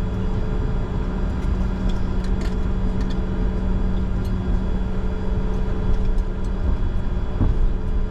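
Steady cockpit noise of a Bombardier Challenger 605 taxiing with its twin turbofan engines running: a constant low rumble and hum, with a few faint clicks.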